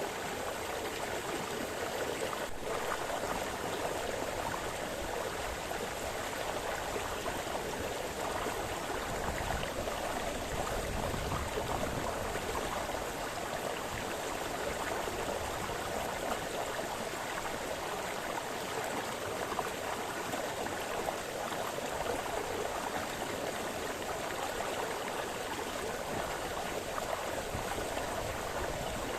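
A brook splashing and gurgling over stones, a steady, even rush of water.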